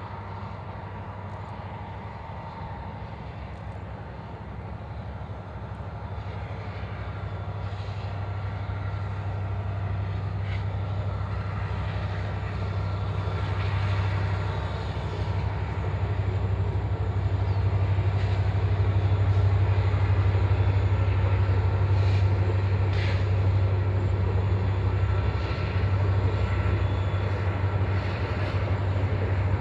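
Train locomotives approaching, a steady low engine drone growing louder for about the first two-thirds and then holding steady.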